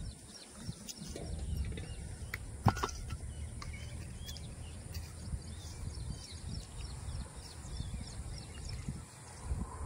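Outdoor rural ambience: a fluctuating low rumble with small birds chirping faintly throughout, and one sharp knock about three seconds in.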